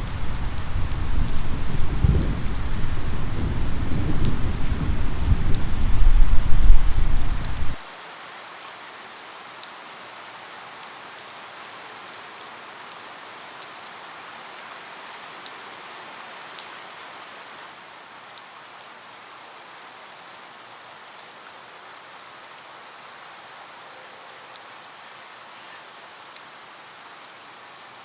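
Steady rain with scattered drips, under a low thunder rumble that grows louder over the first several seconds and then cuts off abruptly about eight seconds in, leaving the rain alone.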